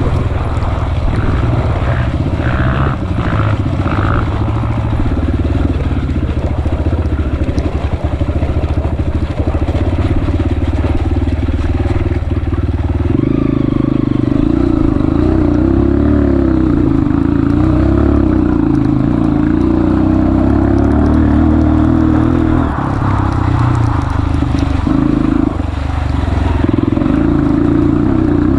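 Honda CRF230F's single-cylinder four-stroke engine running under load on a trail ride, its revs shifting. About halfway through the note climbs to a higher, steadier pitch, then falls back a little after twenty seconds in.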